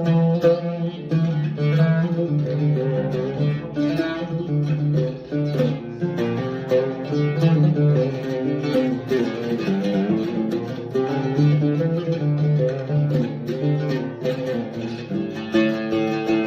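Double-top carbon fiber oud played solo, a continuous run of plucked melodic notes with frequent quick note attacks.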